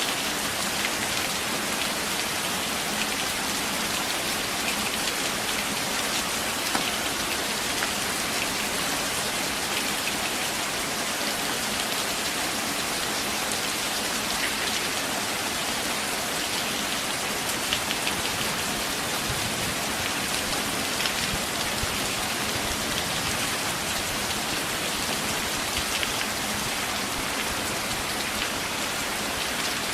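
Steady rain falling on forest foliage: an even, constant hiss with scattered sharper drop ticks.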